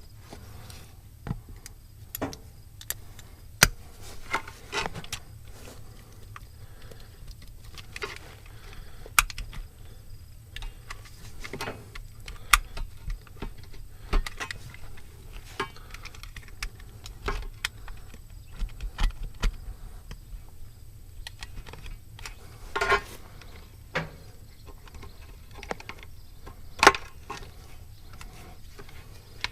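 Hand work on a tractor tire's rubber inner tube: scattered, irregular clicks, taps and scrapes as the old valve stem is cut off with a razor utility knife, with a few sharper knocks.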